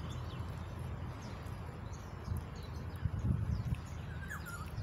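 Outdoor ambience: faint bird chirps over a steady low hum, with a few soft low bumps around the middle.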